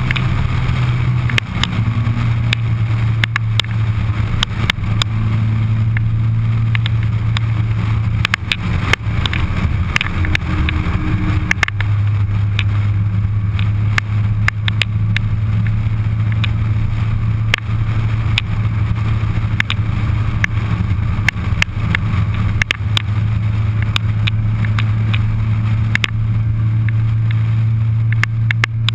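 Suzuki Hayabusa's inline-four engine droning steadily at highway cruise, with wind rushing past and frequent short crackles of wind buffeting the microphone.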